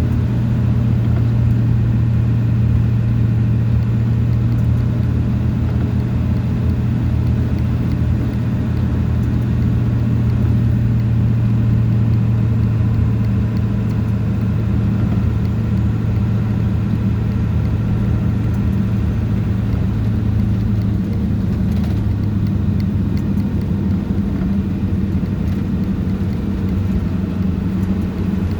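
Steady drone of a vehicle driving, heard from inside the cab: a low engine hum over road noise. About two-thirds of the way through, the hum drops a little in pitch.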